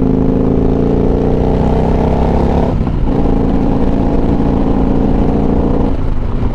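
Motorcycle engine accelerating, rising in pitch, with an upshift about three seconds in and another near the end.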